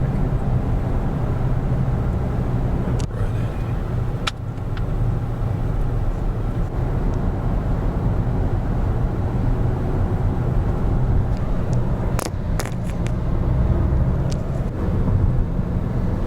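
Car running, a steady low rumble, with a few sharp clicks or knocks about three, four and twelve seconds in.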